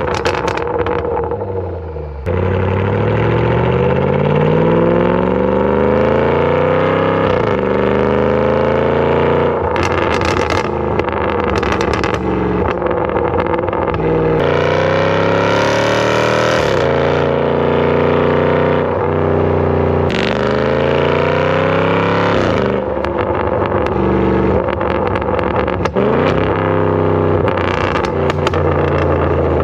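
Range Rover SVR's 5.0-litre supercharged V8 through a titanium aftermarket exhaust with free-flow downpipes, heard at the exhaust outlet while the car accelerates hard. The engine note climbs steadily, then drops sharply at each upshift, about seven times.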